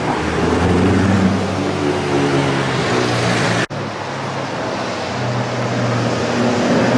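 Koenigsegg CCX's supercharged V8 running as the car drives past, its note climbing through the first few seconds. After a sudden brief break about halfway through, the engine is heard again with a steady note that grows louder as the car comes by.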